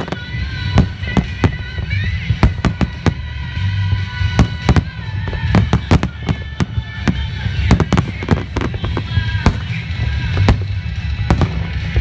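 Aerial firework shells bursting in a display: a continuous series of sharp bangs, roughly two a second.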